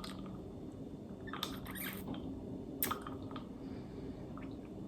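Quiet kitchen with a faint steady hum and a few soft clicks and rustles of things being handled, about one and a half and three seconds in.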